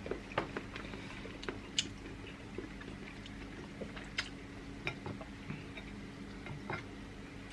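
Scattered light clicks and taps of eating at a table: utensils and seafood shells knocking against plates, about a dozen irregular ticks over a faint steady hum.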